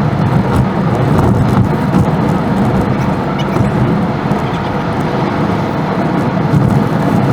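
Steady rumble of a car driving on the road, tyre and engine noise without breaks.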